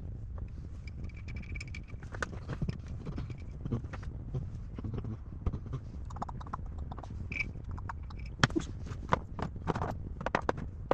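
Irregular clicks, clinks and knocks of metal parts and hand tools being handled during a hydraulic box rebuild, over a low steady rumble; the sharpest knocks come in a quick cluster after about eight seconds.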